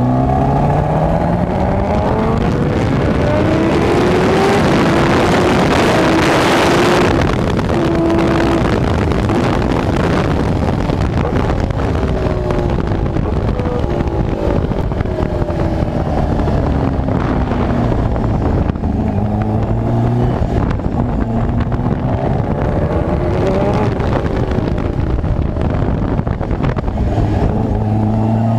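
Kawasaki Ninja H2R's supercharged 998 cc inline-four, heard from onboard, revving up through the gears, then winding down through downshifts as the bike slows, and accelerating again near the end. A loud rush of wind noise covers it from about four to seven seconds in.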